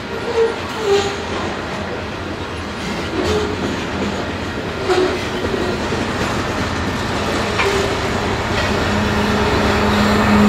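Loaded covered hopper cars of a long freight train rolling past, wheels clattering over rail joints and the crossing with irregular knocks. Near the end the rear pushing locomotive draws close and a steady engine hum comes in and grows louder.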